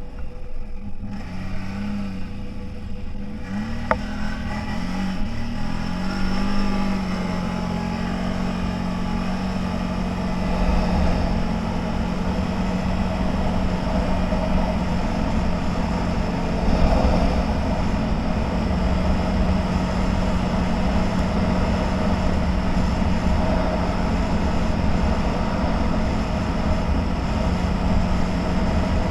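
Off-road vehicle engine running: its pitch rises and falls over the first six seconds, then holds steady at an even pace, over a low rumble.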